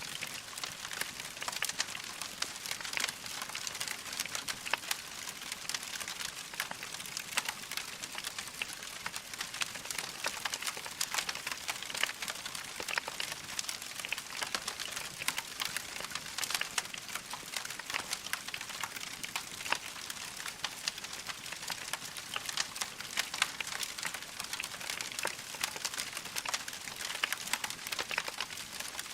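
Wood fire burning in a fireplace: a dense, steady stream of small crackles and pops over a soft hiss.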